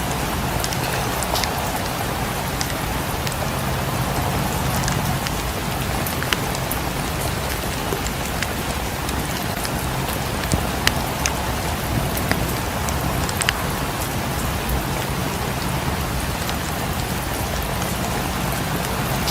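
Steady rain falling on a surface, over a low steady rumble, with scattered sharp clicks and pops, a few louder ones about halfway through.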